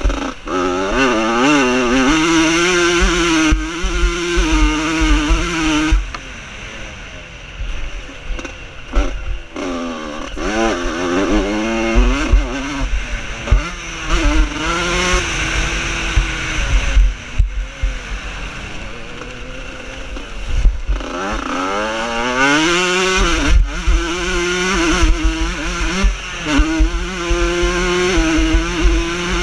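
Vintage motocross motorcycles racing on a dirt track, engine pitch climbing and dropping again and again as riders rev through the gears and back off. The sound fades a couple of times between passing bikes.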